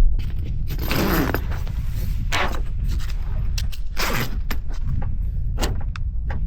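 Irregular scrapes, rustles and knocks of someone moving about and handling things, over a steady low rumble.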